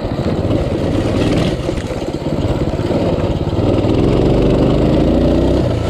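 Coleman CT200U pit bike's small single-cylinder engine running steadily as the bike is ridden. The engine note picks up and climbs about four seconds in, then drops off just before the end.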